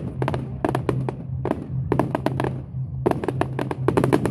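Firework display going off: rapid, irregular clusters of sharp cracks and bangs, several in quick succession, over a steady low hum.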